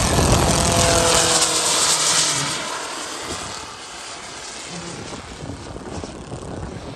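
Radio-controlled model turbine jets flying past in tight formation: a loud rush with a falling whine that fades away after about two and a half seconds, leaving a quieter distant hum.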